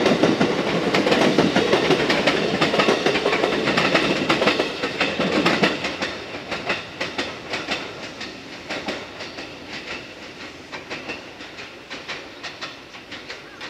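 Electric train running past, its wheels clattering over rail joints in quick clicks; loud for the first five seconds or so, then fading as it moves away, the clicks going on more faintly.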